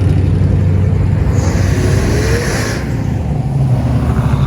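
Engines of passing cars and trucks rumbling as they roll by at low speed, with a brief hiss about a second and a half in.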